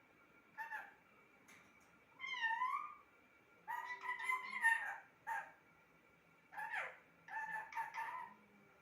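Pet parrot calling in a string of short squawks and chirps, about seven in all, one wavering up and down about two seconds in and the longest, loudest call around the middle.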